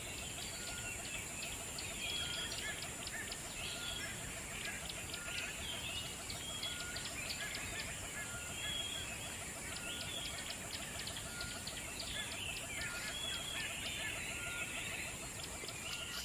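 Nature ambience: several birds calling, with short chirps and whistles and one short note repeated about once a second, over a steady high-pitched hiss.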